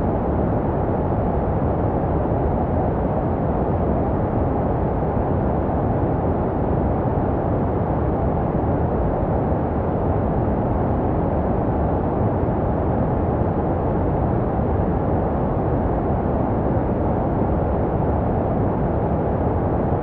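Steady, unbroken white noise, deep and muffled, with its weight in the low and middle range and little hiss at the top. It is a baby-sleep noise made to resemble the sound heard inside the womb.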